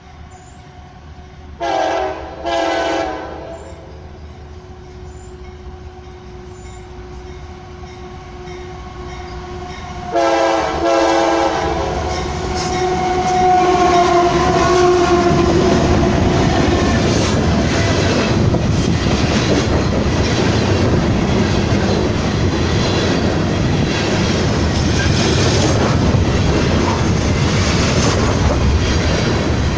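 Freight or passenger locomotive horn sounding two short blasts, then a longer blast about ten seconds in as the train nears. The train then passes close by: a loud, steady rumble of wheels on rail with clicks over the rail joints.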